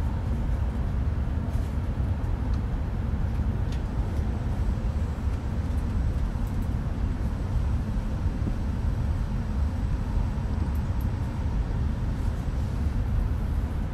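Running noise of an E5 series Shinkansen heard inside the passenger cabin: a steady low rumble of wheels on rail and air rushing past, unchanging throughout.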